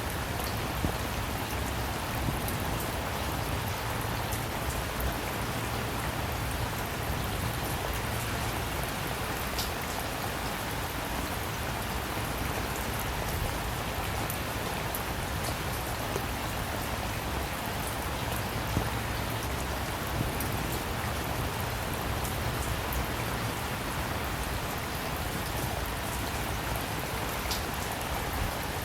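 Steady rainfall, a dense even patter with individual drops ticking on a surface now and then.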